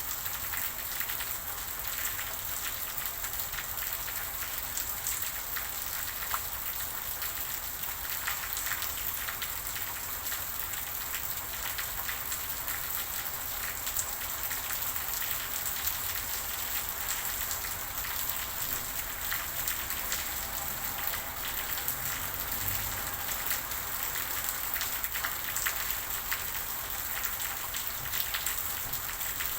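Steady rain falling, a dense even hiss thick with the fine patter of individual drops.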